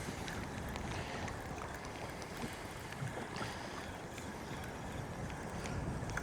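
Wind buffeting the microphone over small waves lapping against the hull of a drifting boat, with light scattered ticks.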